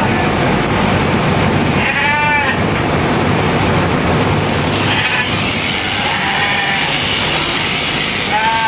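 Sheep bleating several times, short calls over a steady mechanical noise that fits electric sheep-shearing clippers running.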